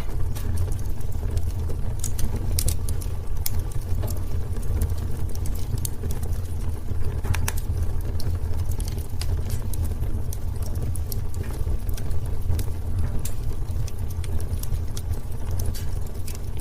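Wood fire burning in a fireplace, crackling with frequent small irregular pops over a steady low rumble.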